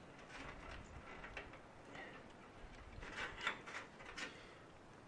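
Faint, scattered light clicks and knocks of cooking gear being handled, with a small cluster of them about three to four seconds in.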